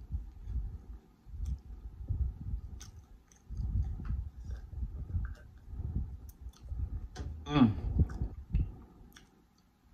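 Close-up eating sounds: chewing with small wet mouth clicks, gulps from a glass of juice about four seconds in, and a short voiced breath near the end.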